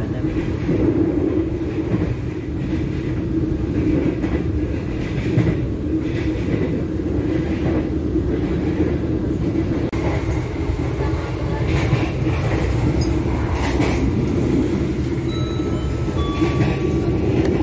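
Steady low rumble of a moving passenger train, heard from inside the carriage as it runs along the rails.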